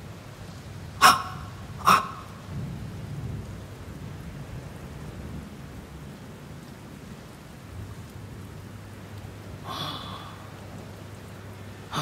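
Steady rain-like hiss with a low rumble under it. Two sharp clicks come about one and two seconds in, and a short breathy sound near the end.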